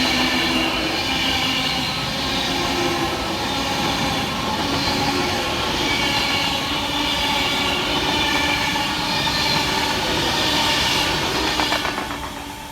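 Avanti West Coast Class 390 Pendolino electric train passing fast through the station: a loud, steady rush of wheels and traction noise with high ringing tones, fading away near the end.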